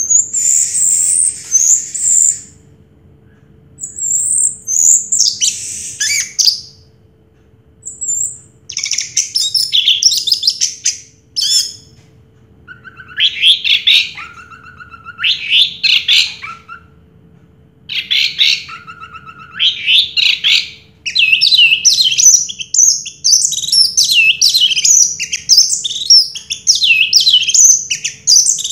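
Orange-headed thrush singing: loud, varied phrases of quick whistles and chatter, each a second or a few long, broken by short pauses, running almost without a break over the last several seconds.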